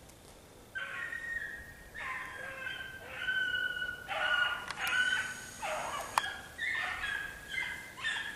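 Birds calling: a series of loud, rolling calls, one after another, starting about a second in.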